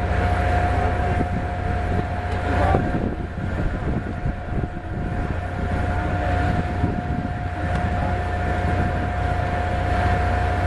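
Jet airliner engines running, a steady whine held over a low rumble.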